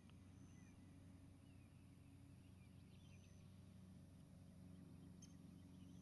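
Near silence: faint, distant bird chirps and a few short high notes over a steady low hum.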